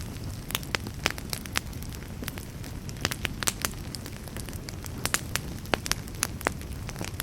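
Wood fire burning in a fireplace: a low, steady rumble of flame with frequent sharp, irregular crackles and pops from the burning logs.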